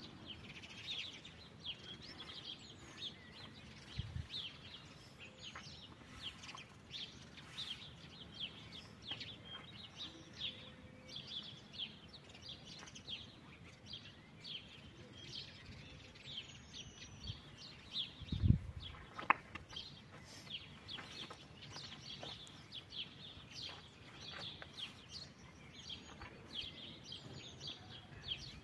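Small birds chirping continually, with a few dull low thumps; the loudest comes about two-thirds of the way through.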